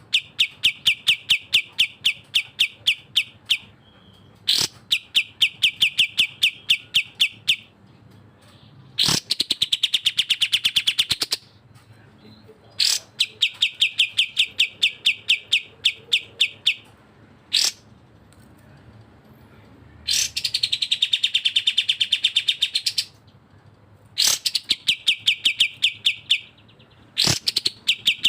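Recorded birdsong of a cucak jenggot (grey-cheeked bulbul) and a kapas tembak: phrases of a few seconds made of fast repeated high chips, about six a second, alternating twice with a fuller phrase that rises and falls in pitch, with short pauses between phrases.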